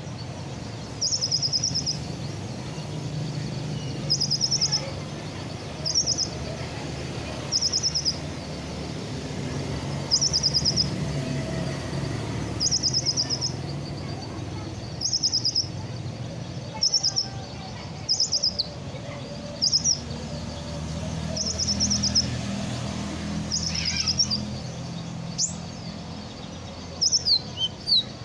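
Kolibri ninja sunbird, freshly out of its moult, singing short, high, rapid trills over and over, each about half a second long with one to two seconds between them. A steady low hum runs underneath.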